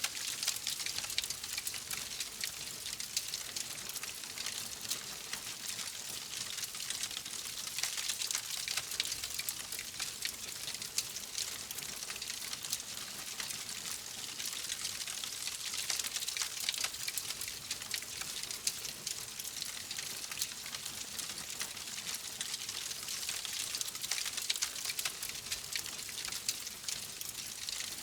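Wood fire crackling steadily in a fireplace: a constant high hiss of burning with many small, sharp pops and snaps throughout.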